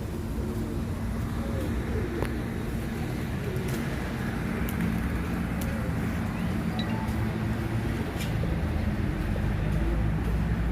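Steady low hum of motor traffic, with a few faint pigeon coos.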